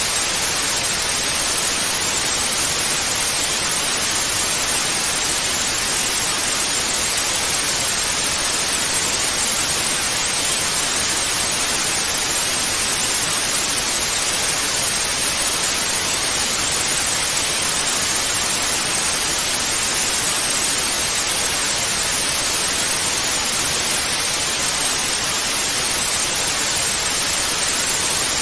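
TV static: a steady, even hiss of white noise that does not change.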